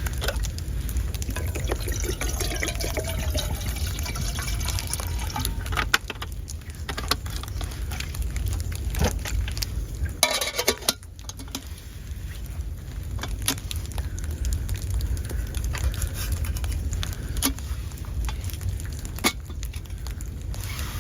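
Liquid sounds with scattered clicks and knocks over a steady low rumble, with a denser, louder cluster of clicks about ten seconds in.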